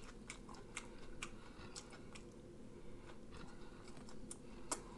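Faint close-up chewing, with small mouth clicks at irregular intervals.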